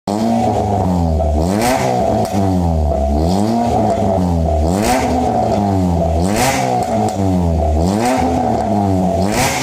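Honda Brio four-cylinder engine through an aftermarket racing exhaust, blipped up and down about six times in a row, roughly every second and a half, with a brief rasp at the top of several revs.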